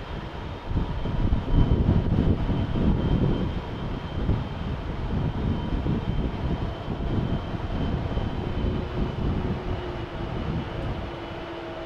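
Jet airliner's engines passing: a low rumble that is loudest about two seconds in and then eases off, with a thin high whine slowly dropping in pitch.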